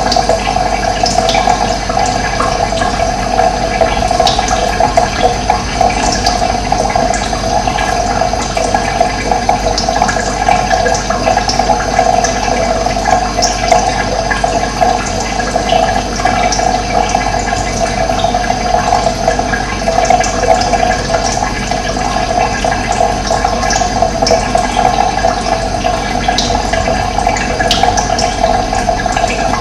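Steady rushing of running water, unbroken throughout, with short high bird chirps scattered over it.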